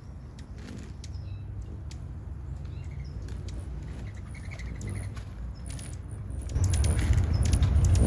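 A small bird's faint short chirps and light clicks, over a low rumble that grows markedly louder about six and a half seconds in.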